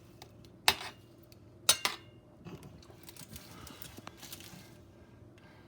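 Two sharp clinks of a serving utensil against dishes about a second apart, the second ringing briefly, with faint handling noise as potatoes are dished from a pan onto plates.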